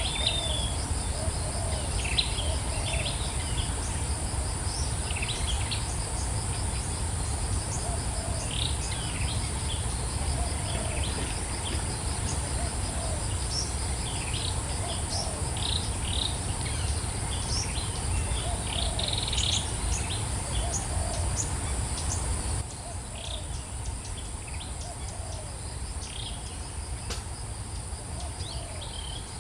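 Insects droning steadily at a high pitch, with birds giving short scattered chirps over a low rumble. The whole sound drops a little in level about 23 seconds in.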